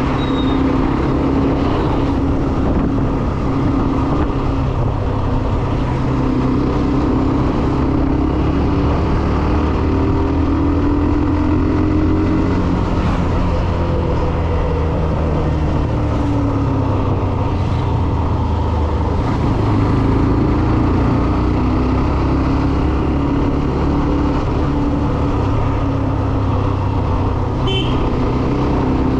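Hero Xtreme 125R motorcycle's single-cylinder engine running under way, its pitch slowly rising and falling with the throttle, over steady wind and road noise from riding.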